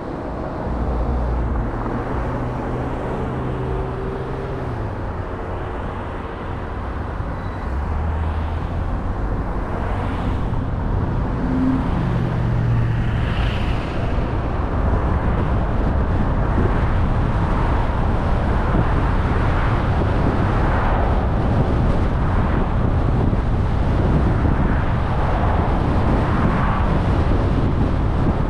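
Car driving on the road: a low engine hum that shifts in pitch for the first few seconds, then tyre and road noise that grows louder about seven seconds in and holds steady.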